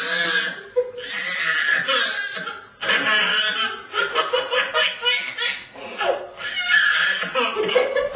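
People laughing, in a run of short repeated bursts.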